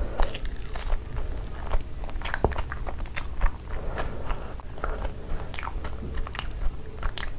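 Close-miked chewing and biting of a mouthful of Cheetos-crusted cheese ball, with irregular crunches and clicks.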